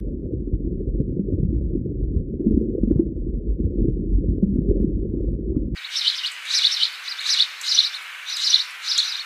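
A low, muffled rumbling noise that cuts off suddenly after about six seconds, followed by a bird chirping over and over, about two chirps a second.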